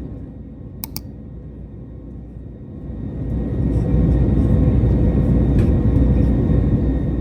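Deep rumble of an Airbus A321neo's jet engines, dipping and then swelling again about three seconds in and holding steady. A sharp double click sounds about a second in.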